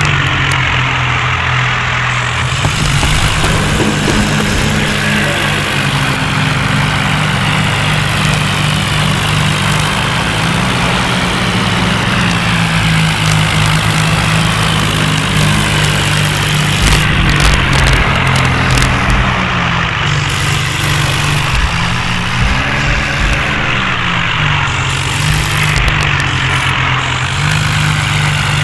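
John Deere tractor's diesel engine running under load, its revs rising and falling several times as the stuck tractor strains to get free.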